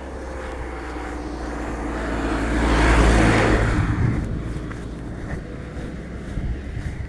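A car driving past: its engine and tyre noise swell to a peak about three seconds in, then fade away.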